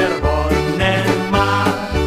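Band music with a concertina playing the melody over bass notes on a steady beat.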